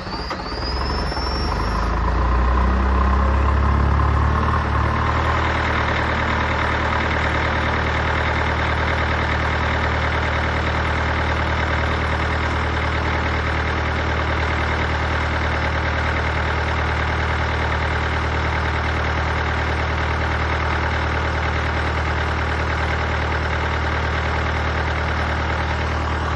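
Vehicle engine just after a cold start, running louder at a raised idle for the first four or five seconds, then settling to a steady idle.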